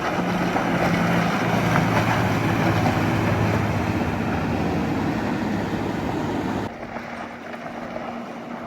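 Motorboat engines running steadily, a low hum under a broad rushing noise. About two-thirds of the way in the sound drops suddenly to a quieter, steady hum.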